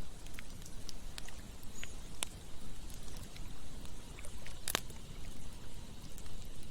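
Campfire crackling with scattered sharp pops, the loudest a little under five seconds in, over the steady rush of flowing river water.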